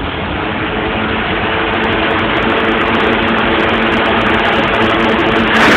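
Motocross motorcycle engines running steadily, with a dense noisy wash behind them. The sound gets louder and brighter near the end.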